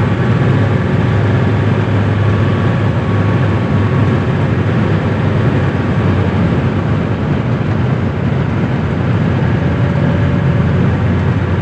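Inside a 1985 Mercedes-Benz 300D W123 while it is being driven: the 3.0-litre five-cylinder turbo diesel runs at a steady low drone with road noise. It holds an even pitch without revving up or down.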